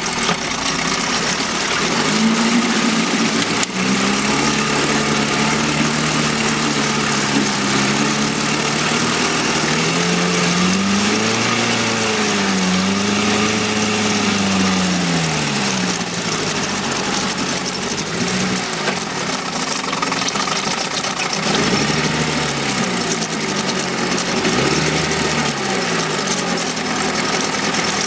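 1971 Mercury 7.5 hp two-stroke outboard motor running on its own, its speed rising and falling unevenly rather than holding steady, while it is left to run out of fuel.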